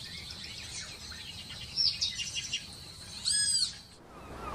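Several birds chirping and singing, with one louder, ringing call about three and a half seconds in. Near the end the sound cuts to a steady rushing noise.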